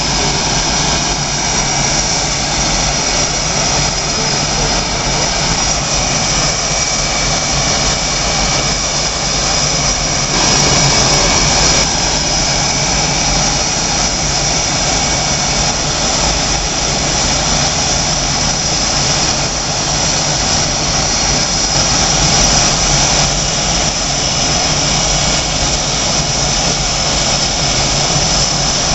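Jet engines of Blue Angels F/A-18 Hornets running steadily with a high turbine whine, swelling briefly twice.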